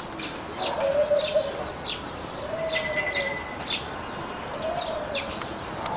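Small birds chirping busily: many quick, high chirps that sweep downward in pitch, several a second.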